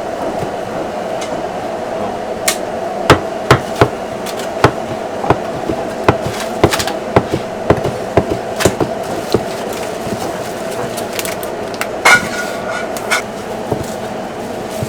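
Cleaver chopping on a cutting board: a run of sharp, irregular chops, thickest in the first half and a few more near the end, over a steady background hum.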